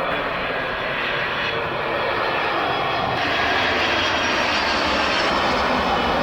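Jet airliner engines at an airport, a loud steady rush with faint whining tones that grows a little louder about halfway through.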